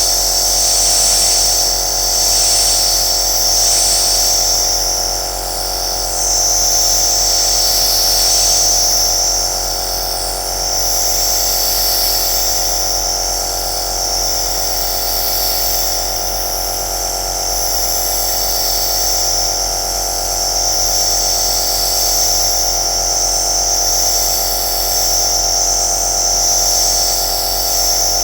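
Compressor nebulizer running steadily: a motor-driven compressor hums under a strong, high hiss of air and mist that wavers slightly.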